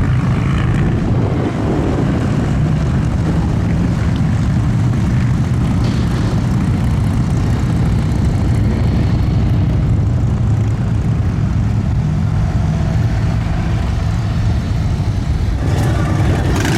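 Motorcycle engines running, a steady, loud low rumble.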